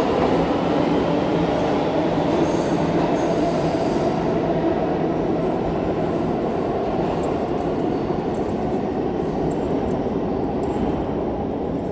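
A New York City subway train running along the rails, with dense wheel and track noise and a faint high tone early on. It fades slowly toward the end.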